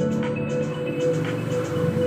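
Music with a steady electronic backing and a strong bass line, played through a Tronsmart T7 Lite 24-watt portable Bluetooth speaker.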